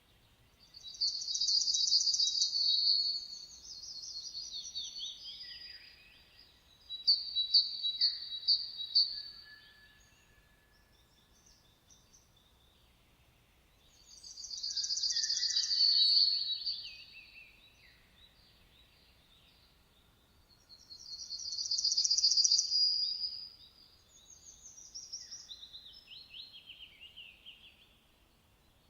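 A songbird singing in separate high, fast twittering phrases of two to three seconds each, about five of them, with pauses of several seconds between. One phrase is a short run of about five sharp repeated notes.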